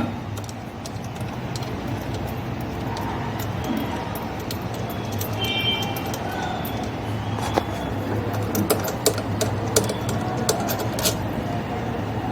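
Light metallic clicks and clinks, as of tools and metal parts being handled, scattered over a steady low hum. The clicks come thicker near the end.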